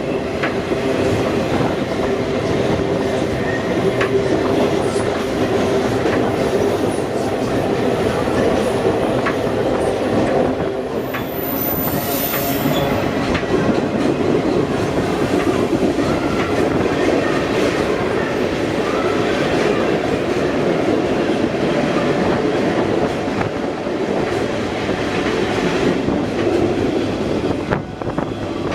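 Canadian Pacific Holiday Train rolling along the track, heard from on board: a steady loud rumble and clatter of the wheels over the rails, with faint thin wheel squeals now and then.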